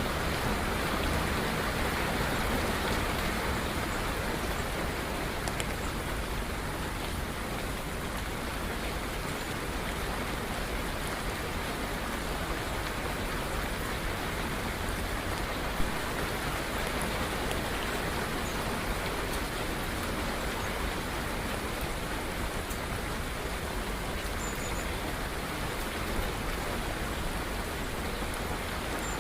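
Steady rain falling, an even hiss of many drops without let-up, with a single sharp tick about halfway through.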